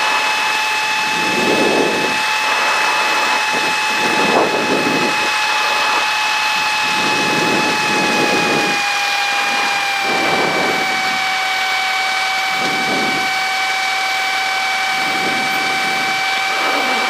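Cessna 152's Lycoming four-cylinder engine and propeller at takeoff power, a steady drone in the cockpit with low swells of rumble. The pitch drops slightly about ten seconds in.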